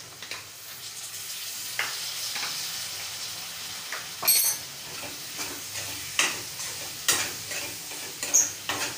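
Paneer cubes and vegetables sizzling in hot oil in a kadhai, stirred with a steel spatula. The spatula scrapes and clicks against the pan every second or so, with one brief metallic ring about halfway through.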